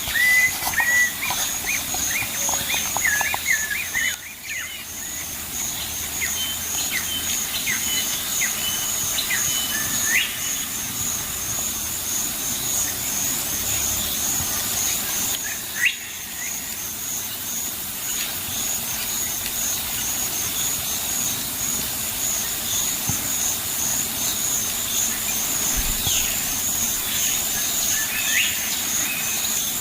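Birds chirping and calling in woodland over a steady, evenly pulsing high insect trill; the birdsong is busiest in the first ten seconds, with only a few calls after that.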